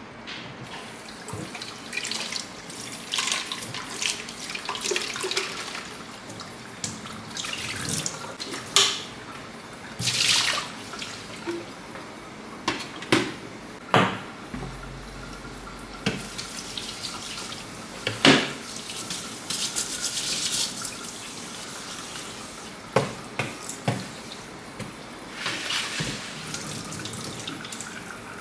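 Water running from a tap into a sink, with repeated knocks and clatters of things being handled and rinsed.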